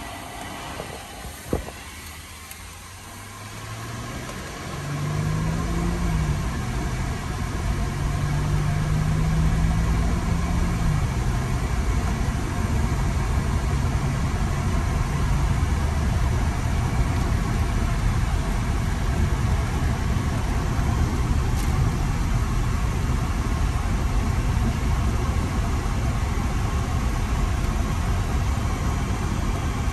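2001 Mercedes-Benz SLK 320's 3.2-litre V6 engine running. After a click about a second and a half in, the sound builds from about four seconds. The engine note holds higher for several seconds, then settles lower and steady about eleven seconds in.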